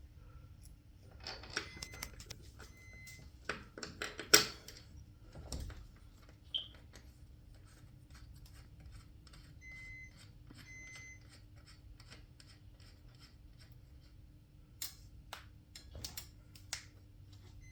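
Screws being driven by hand into a garage door torsion spring bracket: a long run of light, rapid clicking through the middle, with a few sharper knocks of tool and metal before and after.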